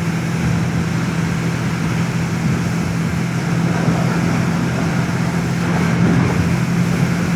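Motorcycle riding along at a steady speed: the engine holds an even note under wind and road noise.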